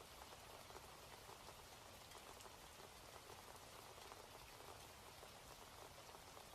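Faint, steady rain falling, an even patter of many small drops.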